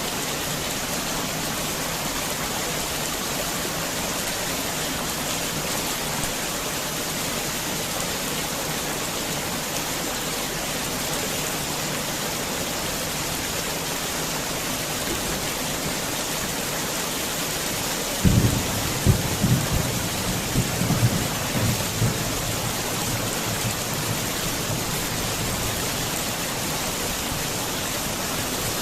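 Heavy rain falling steadily. About eighteen seconds in, a sudden low rumble with several sharp peaks lasts about four seconds and is the loudest sound.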